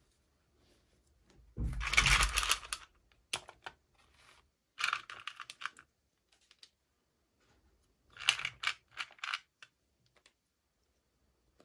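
Hands handling plastic toy packaging and small doll pieces, in four bursts of quick clicking and rustling. The first burst, about two seconds in, is the loudest and has a dull thump under it.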